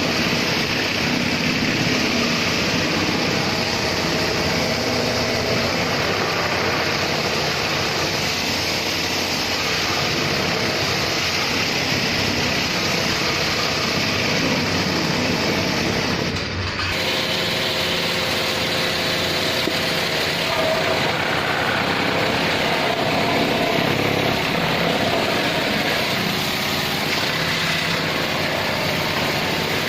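A motor running steadily with a hiss, cutting out briefly a little past halfway before carrying on.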